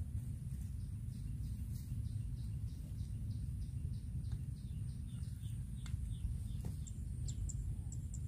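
A bird chirping over and over, two or three short high chirps a second, over a low steady rumble outdoors.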